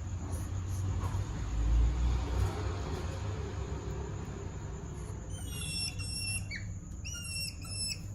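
Hedgehogs mating: a run of short, high whistling chirps, repeated in quick groups, starts about five seconds in. Before them there is a low rumble, loudest about two seconds in.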